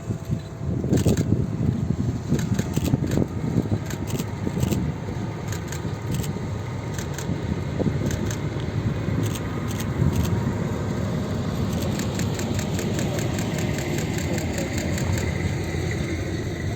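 Diesel locomotive-hauled train running, a steady low engine rumble with sharp metallic clicks from the wheels on the track. The clicks come faster and more evenly in the last few seconds.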